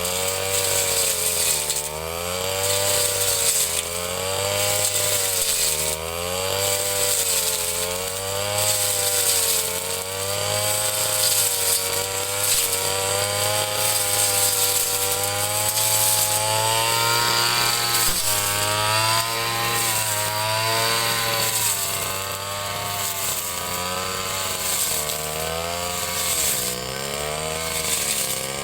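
Ryu 30.5 cc two-stroke brush cutter engine running at high speed, its pitch dipping and recovering every couple of seconds as it is loaded cutting grass, with a steadier stretch in the middle.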